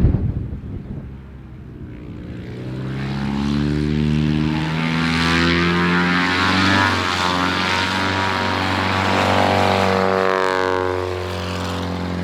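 Light propeller airplane's piston engine running, growing louder over several seconds and then holding, its tone sweeping as the plane moves past.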